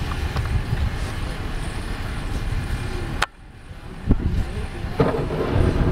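A vehicle engine running with a steady low rumble. It cuts off abruptly with a click about three seconds in, then picks up again a second or so later.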